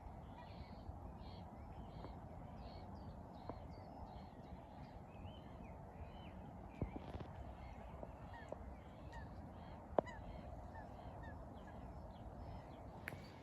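A flock of waterbirds calling, many short calls overlapping continuously, with two sharp clicks, the louder one about ten seconds in.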